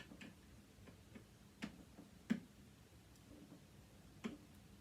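Faint, irregular clicks and taps, about seven of them, the sharpest a little past two seconds in: a tool and small parts knocking against a sewing machine's casing as it is dismantled.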